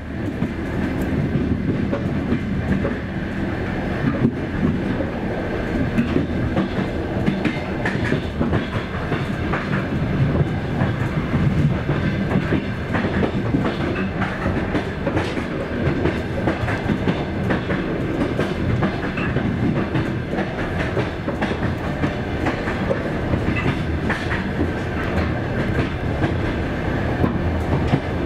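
Passenger train carriage running on the rails, heard from inside at the window: a steady rumble of the running gear with scattered clicks of the wheels over rail joints.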